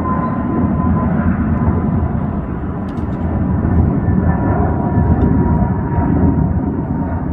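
Jet airliner taking off: a steady, loud engine roar with a deep rumble and a thin steady whine running through it.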